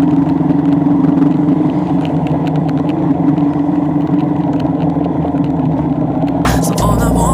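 A motor vehicle travelling at a steady speed: an even engine hum with road and wind noise. Near the end a brighter, busier sound with clicks comes in.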